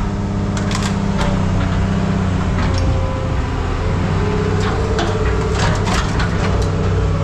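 An engine running steadily at a low pitch, with scattered sharp knocks and clanks over it.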